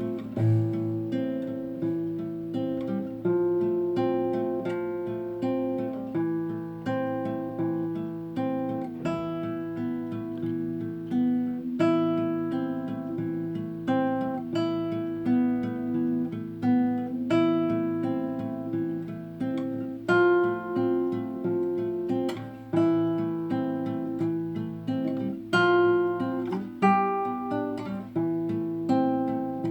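Classical guitar fingerpicking a slow arpeggiated passage, each plucked note ringing on under the next.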